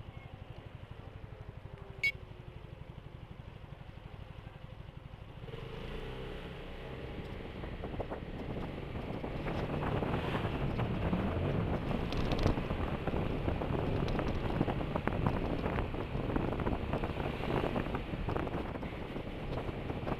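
BMW C 400 GT scooter's single-cylinder engine ticking over at a steady low pulse, then pulling away about five seconds in, with wind buffeting the microphone and road noise building as it gathers speed. A single sharp click about two seconds in.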